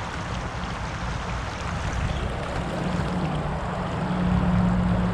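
Creek water running steadily, with a low steady hum under it that grows louder about three seconds in.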